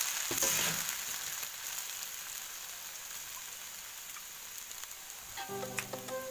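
Fried noodles sizzling steadily in a hot wok as they are stir-fried with a slotted metal spatula. The sizzle eases slightly, and music comes in near the end.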